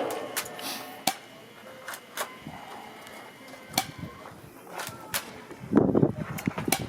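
Scattered sharp clicks from an airsoft bolt-action spring rifle being fired and its bolt cycled, with a short, louder low rumble about six seconds in.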